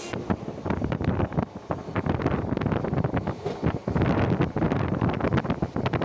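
Wind rushing over the microphone from a moving train, with a dense, irregular clatter of rattles and knocks over the running noise.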